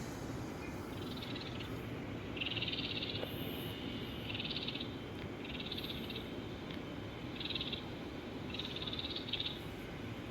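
Short, high, rapidly pulsed animal trills, about six of them, each lasting under a second and coming every second or so.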